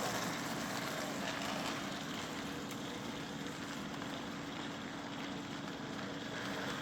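K-Line O-27 starter-set locomotive running on its track: a steady electric motor hum with the rattle of its wheels on the rails. The locomotive has no sound system, so this is only its mechanical running noise.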